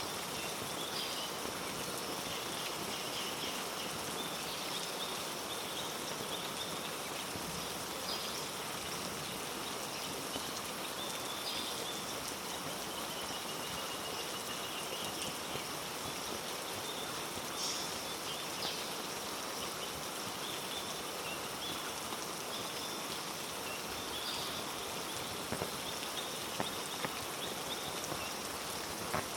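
Steady heavy rain falling through rainforest, an even hiss of drops, with faint high chirps coming and going.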